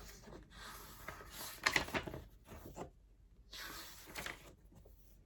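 Soft rustling and handling noise from a picture book as its cover and pages are turned, in three short spells with a few light clicks.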